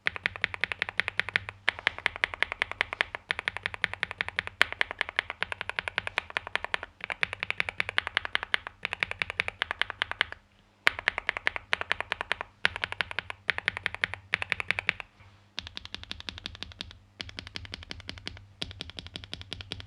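Fast typing on a NuPhy Gem80 mechanical keyboard with linear switches (Mint and Night Breeze) on an FR4 gasket-mounted plate: dense runs of sharp keystroke clacks in bursts of a second or two, broken by short pauses. The keystrokes turn noticeably softer about three-quarters of the way through.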